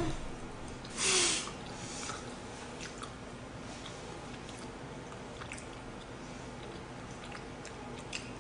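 Soft mouth sounds of a person chewing food, with scattered faint clicks and a short breathy rush of noise about a second in.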